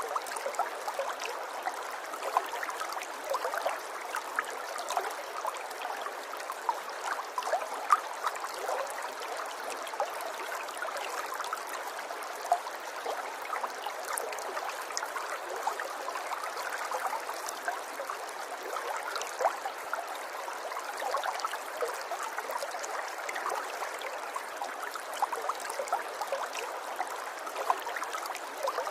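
River water flowing and burbling steadily, with many small gurgles and splashes over a constant rushing wash.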